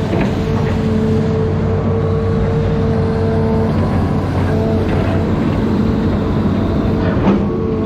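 Amphibious excavator's diesel engine running steadily under load, with a steady hum and a few light knocks.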